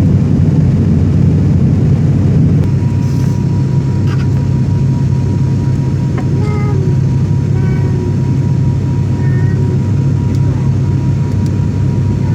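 Boeing jet airliner during landing: a loud, steady low rumble, joined a few seconds in by a thin steady high tone that holds to the end.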